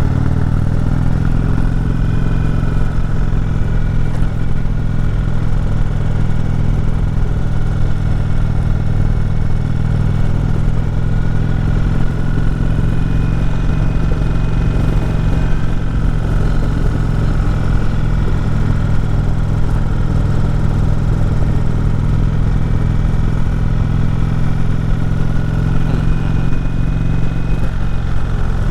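Indian Chieftain's V-twin engine running steadily under load while climbing a steep road, its low note holding even with little change in revs.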